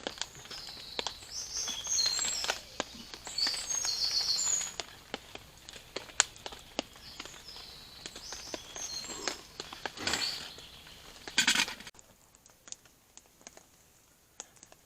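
Small birds singing in short high chirping phrases, with scattered sharp clicks and two louder brief rustling bursts about ten and eleven seconds in.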